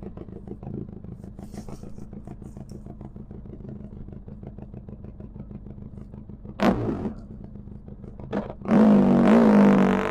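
Benelli TRK 502 X parallel-twin engine through an Arrow exhaust with its dB killer removed, idling with an even pulse. A short throttle blip comes about two-thirds in, then the engine pulls away loudly near the end, rising in pitch.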